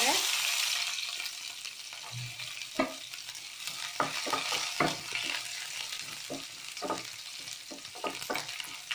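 Chopped green chillies, ginger and garlic sizzling as they hit hot oil in a non-stick kadai, loudest at first and settling over the first couple of seconds into steady frying. A wooden spatula stirs them, knocking and scraping against the pan at irregular moments.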